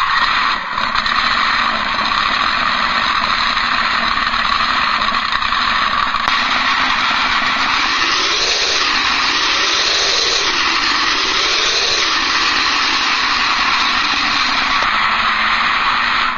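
Recorded monster truck engine sound played by an RC sound card through a small speaker. It idles steadily, then about halfway through it revs up and down three times as a throttle tester simulates gear shifts, and settles back to idle. The sound is thin and lacks bass, which its maker judges not deep enough.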